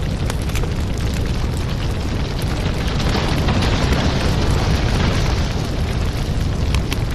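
Wood fire in a fireplace crackling, with frequent sharp pops over a steady low rumble and a swell of hissing about three seconds in.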